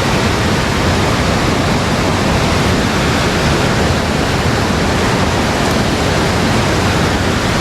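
Loud, steady rush of fast-flowing water, a waterway running high after rain.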